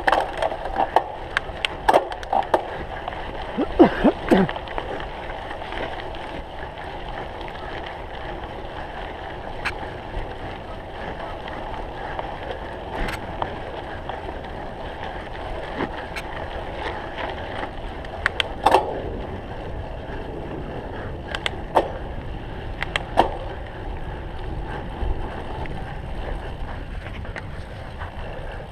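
Cyclocross bike being ridden over rough ground: steady tyre and wind noise, with sharp rattles and knocks from the bike over bumps, several of them close together near the start and a few more later on.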